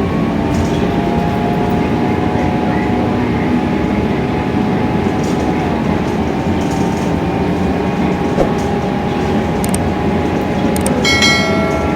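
Steady engine and cabin noise inside a Scania K320iA CNG bus with the engine running, with a few light clicks. A brief high-pitched tone sounds about eleven seconds in.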